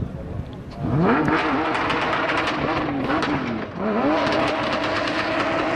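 SUV engine revved hard while drifting with its wheels spinning. The revs climb sharply about a second in and waver, drop briefly near the middle, then climb again and hold steady at high revs.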